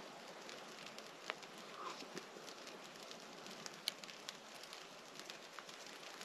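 Small campfire burning, with faint crackle and scattered sharp pops from the wood.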